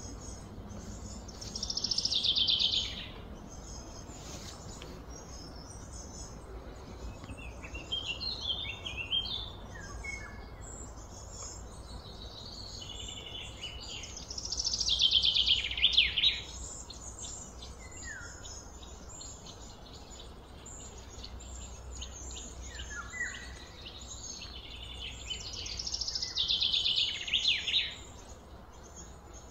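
A songbird singing three loud songs about twelve seconds apart, each a fast run of notes falling in pitch over a second or two, with scattered short chirps between, over a steady low background.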